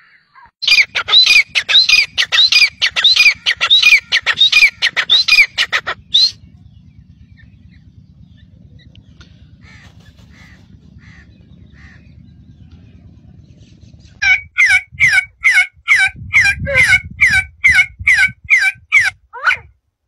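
Birds calling in three parts. First a fast run of sharp, repeated harsh calls from a male black francolin, lasting about six seconds. Then a quiet stretch with a low rumble and a few faint chirps, and from about fourteen seconds another fast series of repeated calls, a couple of notes a second.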